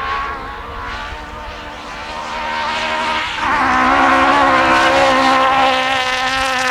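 Historic rally car's engine running hard at full throttle, heard from inside the car on a flat-out stretch of a gravel stage. About three seconds in the note breaks briefly, like a gear change, then comes back louder.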